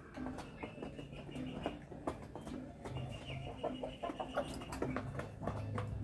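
Chickens clucking while they feed, with many short sharp clicks and two long, thin, high-pitched calls, one near the start and one in the middle.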